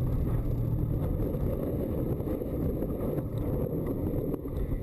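Steady noise of a car driving: low engine hum and road noise.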